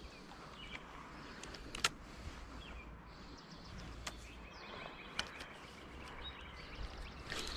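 Faint outdoor background with a few sharp clicks and some faint, short bird chirps.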